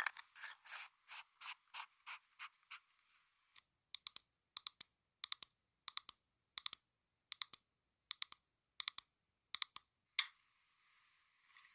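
Close-miked ASMR tapping and clicking on makeup items: first a run of scratchy strokes about three a second, then sharp clicks, often in pairs, about three a second. The clicks stop about ten seconds in.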